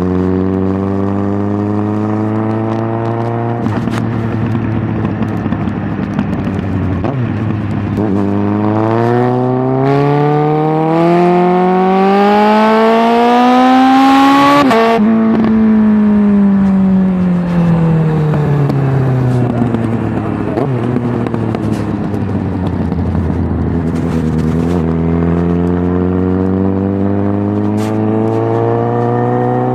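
Suzuki GSX650F inline-four engine through a Tiger aftermarket exhaust. It runs at steady revs, then climbs smoothly in pitch for about seven seconds until the throttle shuts suddenly and the revs fall away. It holds steady again and starts climbing once more near the end.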